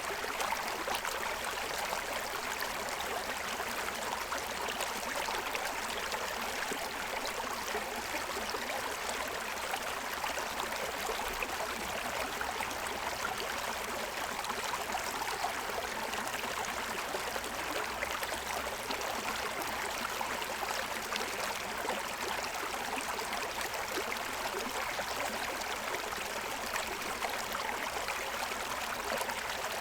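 Forest stream running over the stones of its bed, a steady babbling flow.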